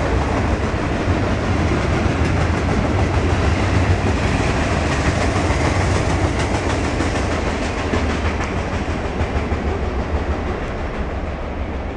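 Freight cars rolling past on jointed track, a steady rumble with the wheels clicking over the rail joints, fading gradually as the end of the train goes by.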